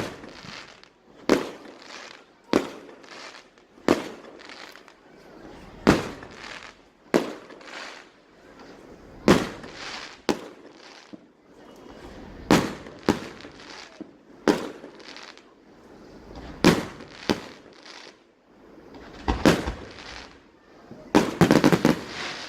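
Aerial fireworks bursting overhead, one sharp bang every second or so, each followed by a trailing echo and crackle. Near the end comes a quicker run of several bangs close together.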